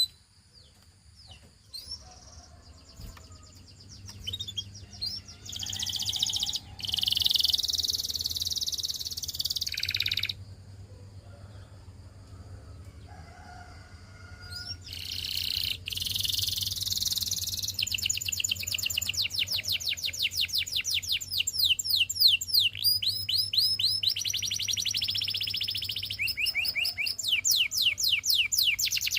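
Canary singing in high, rapid phrases: a dense rolling trill for a few seconds, a pause, then a long run of fast repeated sweeping notes in quick trills through the second half.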